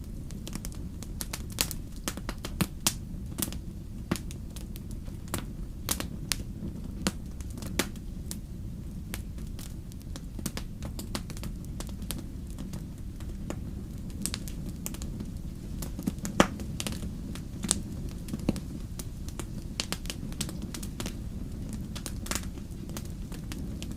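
Wood campfire crackling: irregular sharp pops and snaps of burning logs over a steady low rumble of flames, with one louder pop about two-thirds of the way through.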